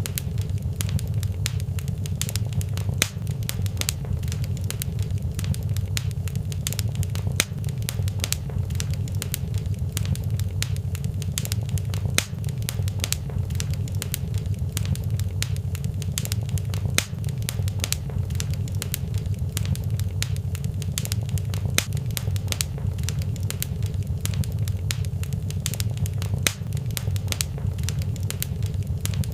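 Wood fire crackling in a fireplace: a dense run of small pops and snaps with a few louder ones, over a steady low rumble of the flames.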